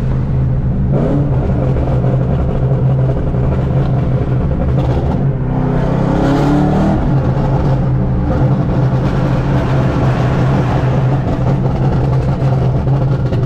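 Pontiac G8's engine and road noise heard from inside the cabin while driving: a steady drone that briefly rises in pitch about halfway through as the car accelerates.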